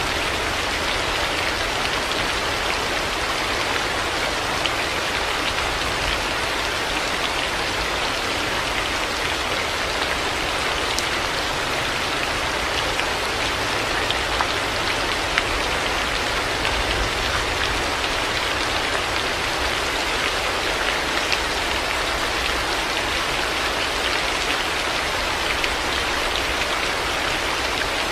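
Heavy rain falling steadily, an even hiss with scattered individual drops ticking through it.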